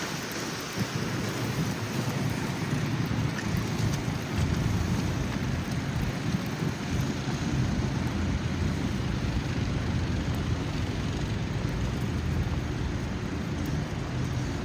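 Wind of a blizzard buffeting the microphone, a steady low rumble, over a wash of city street and traffic noise.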